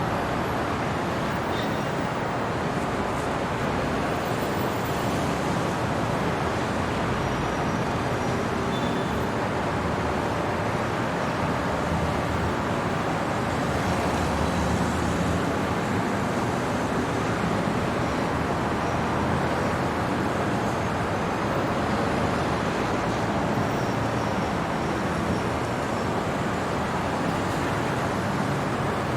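Steady city traffic noise: a continuous, even wash of road vehicles passing, with no single event standing out.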